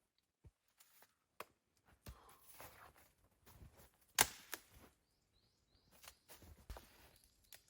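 Irregular sharp clicks and knocks, the loudest a single crack about four seconds in, with brief rustling between them.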